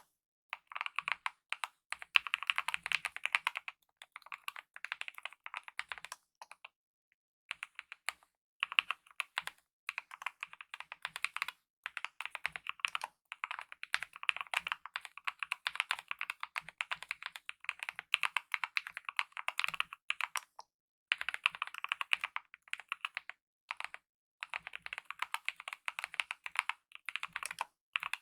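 Steady typing on a mechanical keyboard with lubed optical red linear switches and DSA-profile keycaps: fast runs of key clicks broken by short pauses, the longest about seven seconds in and again near twenty-one seconds.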